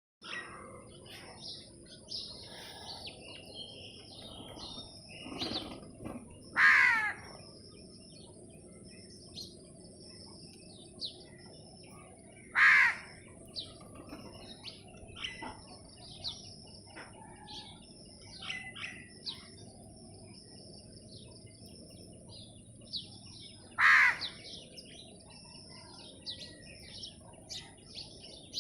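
Sparrows chirping in quick short notes almost without pause. Three much louder, harsher calls from a bigger bird come about a quarter, just under half and most of the way through.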